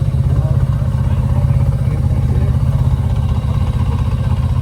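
A motorcycle engine running steadily at low revs, loud, with an even rapid pulse of firing strokes.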